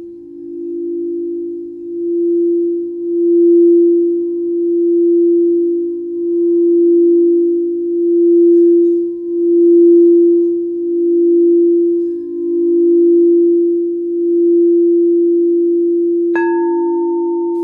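Singing bowl sounding a steady low tone that swells and fades in a slow pulse, about every second and a half. Near the end a higher bowl is struck once and rings on.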